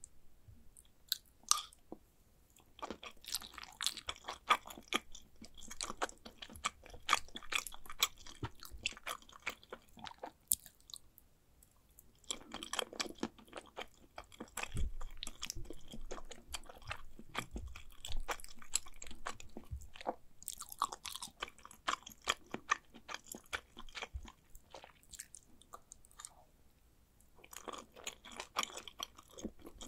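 Close-miked chewing of mac and cheese, with wet mouth clicks and smacks coming in several bouts separated by short pauses.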